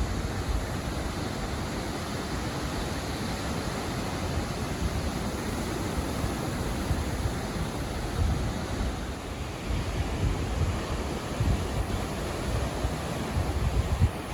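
Ocean surf breaking and washing in a steady roar, with wind buffeting the microphone in gusts, strongest in the second half.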